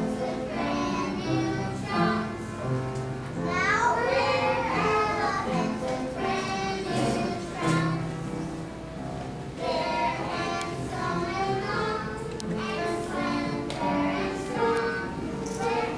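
A group of young children singing a song together over steady instrumental accompaniment.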